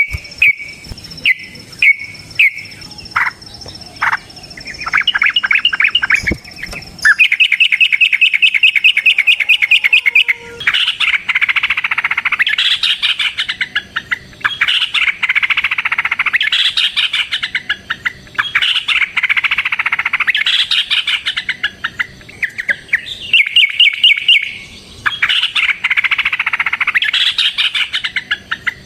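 Yellow-vented bulbul (trucukan) singing. At first it gives a few short separate chirps, then it breaks into long runs of fast rolling, chattering notes ('ropel') with brief pauses between runs.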